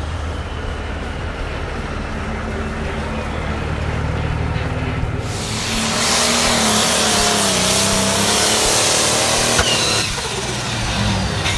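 A pulling vehicle's engine runs steadily, then about five seconds in goes much louder, hard on the throttle with a wide hissing roar, and drops back about two seconds before the end.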